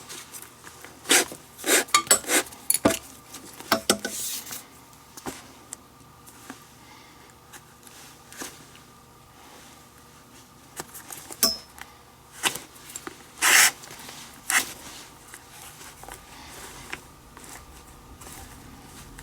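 Leather lace being pulled and worked through the lacing holes of a Rawlings Gamer baseball glove: irregular scrapes, rubs and small clinks of handling, with a quick cluster of sharp scrapes about a second in and another around two-thirds of the way through.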